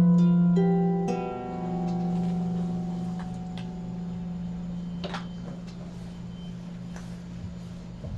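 Plucked string instrument played slowly for sound healing: a deep note with ringing overtones is plucked again about a second in and left to fade slowly, with a few light higher plucks over it.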